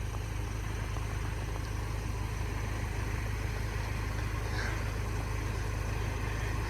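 A steady, low engine rumble with no build-up or fade.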